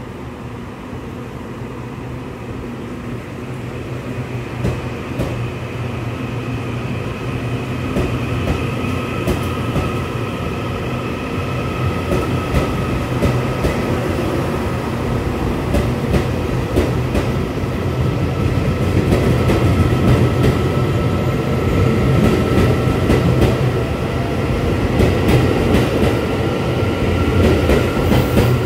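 Metro train running and gathering speed: a steady rumble with an electric motor whine that creeps slowly up in pitch, and the wheels clicking over the rail joints. The whole sound grows steadily louder.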